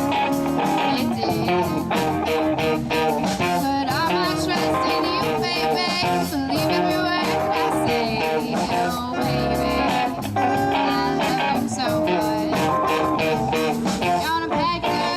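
Live band playing a blues-rock number: electric guitar lead over bass and drums, with a steady beat.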